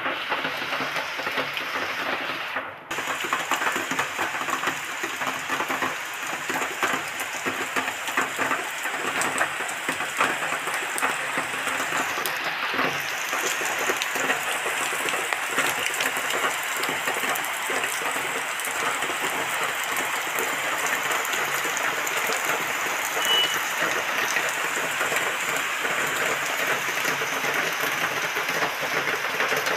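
Heavy monsoon-style downpour falling on a wet concrete courtyard and foliage: a steady, dense patter of raindrops.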